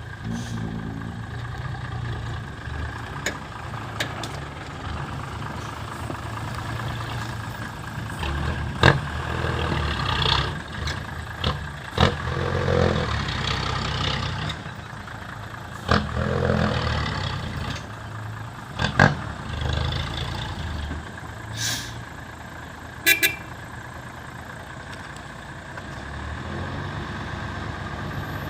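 Dump truck engine running steadily, with several sharp knocks and a few louder rumbling surges in the middle stretch.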